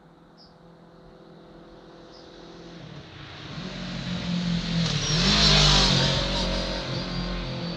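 Kawasaki Ninja 650 parallel-twin motorcycle approaching and passing, growing from faint to loudest about five and a half seconds in, then fading, with its pitch dropping as it goes by.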